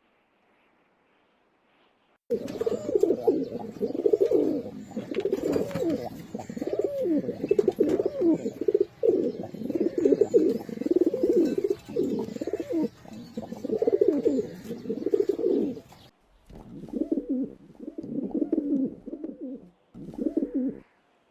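Pigeons cooing. After about two seconds of silence, a long stretch of dense, continuous cooing cuts off suddenly, followed by a shorter run of separate coos near the end.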